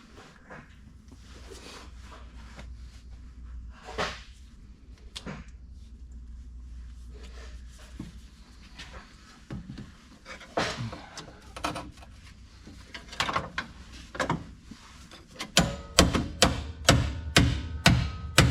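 Metal parts clanking and scraping during a tractor transmission teardown, then, near the end, a run of hammer blows on steel, about two a second, each ringing.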